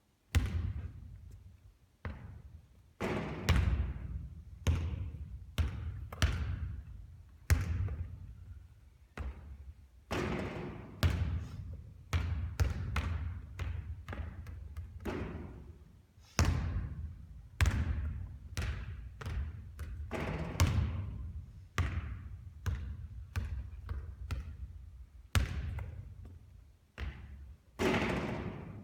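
A basketball bouncing repeatedly on a hard court during shooting practice: irregular thuds about once a second, each trailing off in a short echo.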